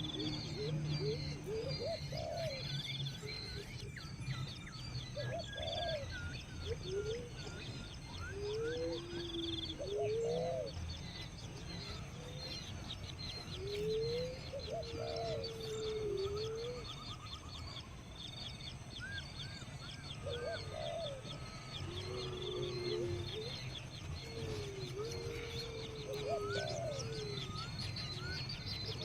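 Birds calling: a low cooing note that rises and falls, repeated every couple of seconds, over fast, high-pitched chirping that keeps on throughout.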